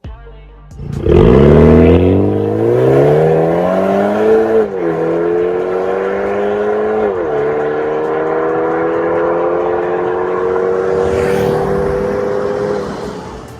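BMW 530i's B48 turbocharged four-cylinder through an MS-R valved catback exhaust, accelerating hard: the revs climb, drop at two upshifts, then climb slowly again before fading near the end.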